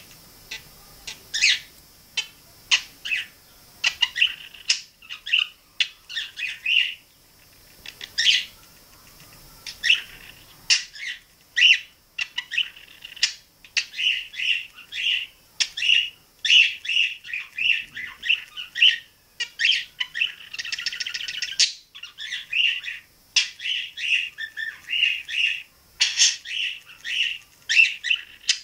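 Pet budgerigar chattering: a fast string of short chirps, clicks and warbles, with a buzzy warble about twenty seconds in.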